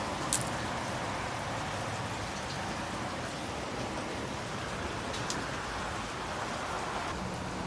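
Hail and rain falling steadily, an even hiss with a couple of sharper ticks from pellets striking, one about half a second in and a fainter one near the middle.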